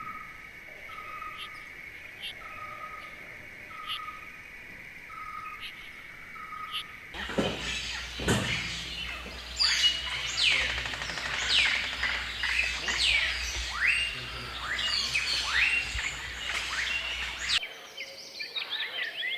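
Rainforest bird calls. First a steady high hum with a short note repeated about every 0.6 s. About seven seconds in, the sound changes abruptly to a loud, dense chorus of many falling whistled calls, and near the end it switches again to a quieter run of rapid chirps.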